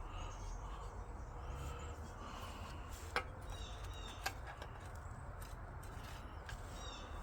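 Two light clicks about a second apart, about three seconds in, from a car speaker and its mounting bracket being handled, over a faint steady background with a few soft chirps.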